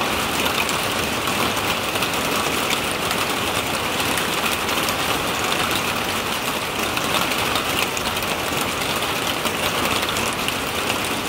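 Heavy thunderstorm downpour: a dense, steady hiss and patter of countless drops striking the ground.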